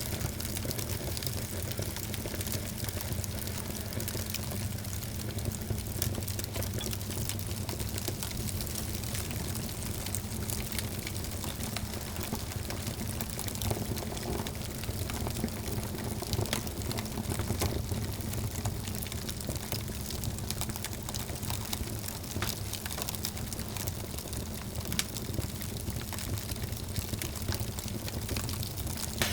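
Wood fire in a fireplace, crackling steadily with frequent small sharp pops over a low steady rumble.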